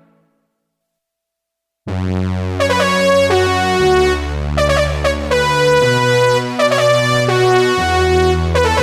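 Yamaha SY77 synthesizer playing a keyboard patch. After a short silence, a new sound starts about two seconds in: held chords over a bass note that changes about every two seconds, with short repeated higher notes on top.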